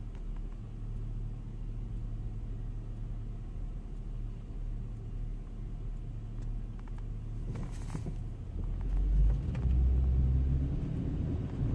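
Chevrolet Camaro engine running with a low, steady rumble, growing louder about nine seconds in.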